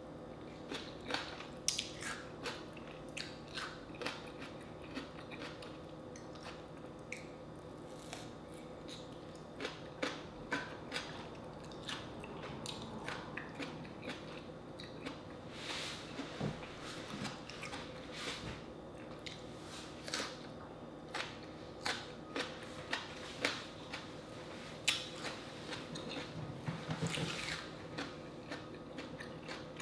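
Close-up mouth sounds of a person biting and chewing crisp slices of unripe green tomato: a string of short, irregular crunches and clicks.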